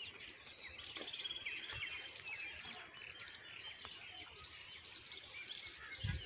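Small birds chirping and twittering, many short high calls overlapping, with a rapid trill about a second in.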